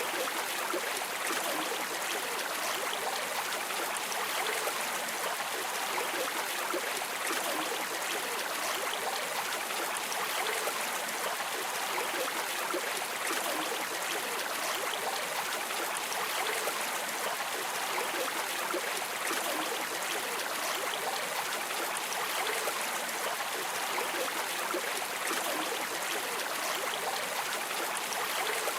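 Steady rushing and babbling of flowing river or stream water, an even hiss with no breaks.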